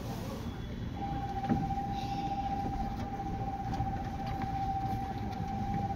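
Inside a 201 series electric train car: a low rumble, and about a second in a steady high tone that holds for about five seconds.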